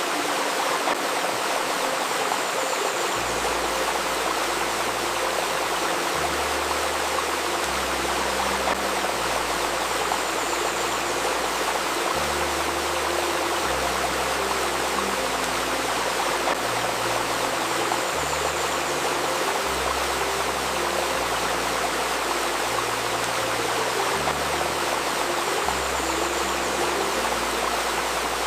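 A river stream babbling steadily, with a faint steady 528 Hz tone over it. From about three seconds in, soft low notes come in beneath, changing every second or two.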